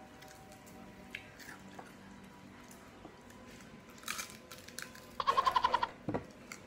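A person eating by hand: quiet chewing and biting with faint wet clicks. About five seconds in, a loud brief high-pitched warbling sound cuts across it, followed by a dull thump.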